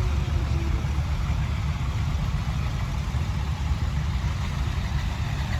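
Tractor engine running steadily with a low, pulsing rumble.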